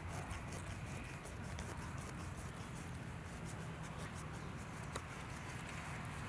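Wood campfire crackling, with irregular small pops and snaps over a steady low rumble.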